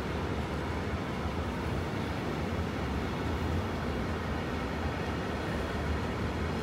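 Freight train of railway tank wagons rolling past on the track: a steady low rumble of wheels on rails.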